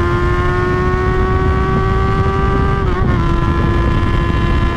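Honda motorcycle's engine running hard at high road speed, its note slowly rising and then dropping a little about three seconds in as the throttle eases, over loud wind rush.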